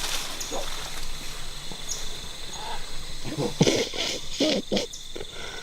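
Rainforest insect chorus: a steady high drone throughout. A few short, sharp animal calls cluster from about three and a half to five seconds in.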